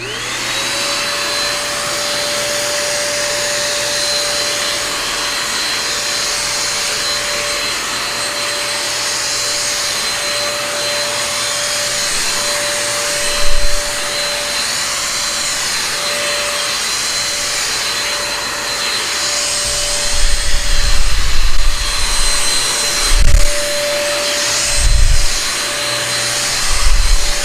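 Nikai NVC320H1 600 W mini stick vacuum cleaner, fitted with its brush tool, spinning up and running steadily with a high whine and rushing suction while picking up cracker crumbs. Several low thumps come in about halfway and again near the end.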